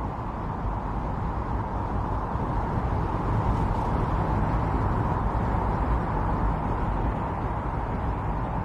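Strong wind blowing in a snowstorm, a steady rushing that swells a little louder in the middle.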